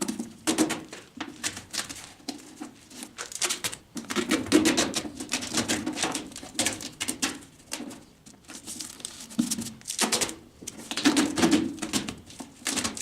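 Cloth duct tape being pulled off the roll in several crackling pulls and stuck over a concrete mixer's broken fan cover.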